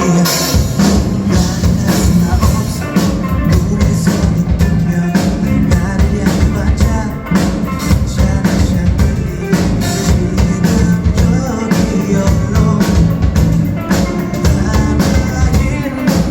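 A rock band playing an instrumental passage live, with drum kit and bass coming in about half a second in.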